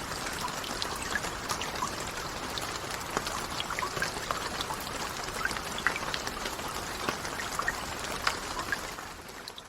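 Steady rain with many separate drops ticking sharply through the hiss, fading out near the end.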